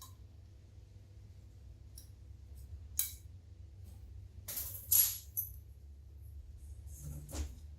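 Metal tools or engine parts being handled, with sharp clinks and a brief jingling rattle about halfway through, over a steady low hum.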